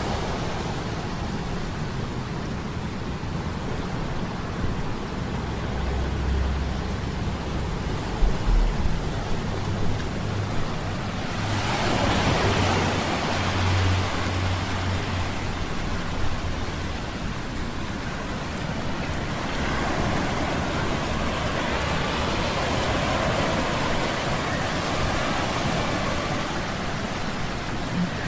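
Low, steady humming of metal gears under the rushing noise of a stormy sea; a surge of surf swells up about eleven seconds in and the sea noise stays fuller after it.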